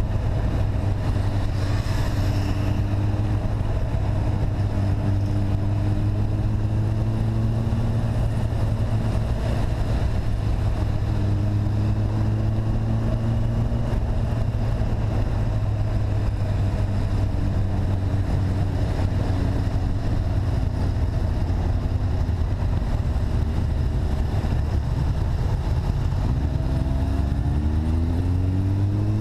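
Engine of a ridden vehicle running under way, a steady low drone whose pitch eases up and down with the throttle, then climbs near the end as it accelerates.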